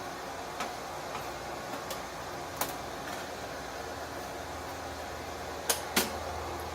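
A few sharp metal clicks and knocks over a steady hum, the two loudest close together near the end, as a hot steel bar is handled for bending.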